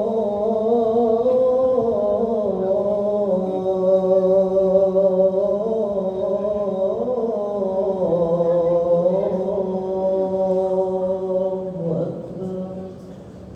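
A muezzin chanting the adhan, the Islamic call to prayer, drawing out one long melismatic phrase in a single held voice that slides up and down in pitch. The phrase ends about twelve seconds in.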